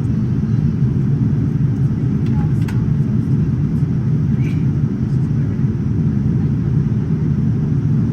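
Steady cabin rumble of a Boeing 787-9 airliner in flight, an even low roar of engines and airflow, with a few faint clicks in the cabin.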